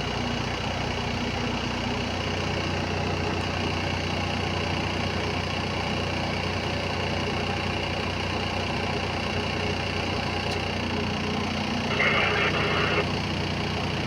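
Heavy diesel engine of earthmoving equipment running steadily, with a louder, rougher burst lasting about a second near the end.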